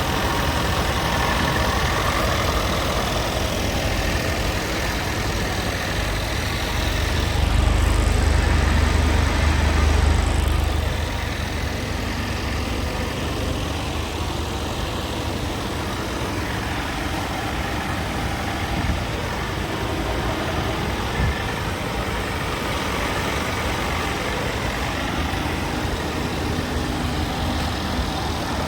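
Scania P320 tractor unit's diesel engine idling steadily, getting louder and deeper for about three seconds from roughly seven seconds in, then settling back to idle.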